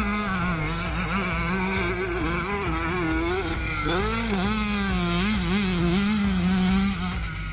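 Single-cylinder two-stroke motocross bike engine, a Yamaha YZ85, revving hard, its pitch rising and dipping over and over as the throttle is worked.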